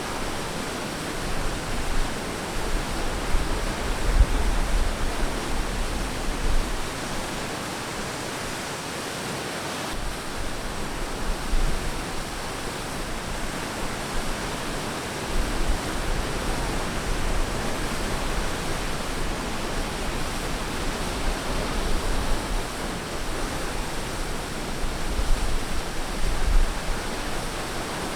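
Ocean surf washing on a beach: a steady hiss of breaking waves, with low rumbles that swell and fade every few seconds.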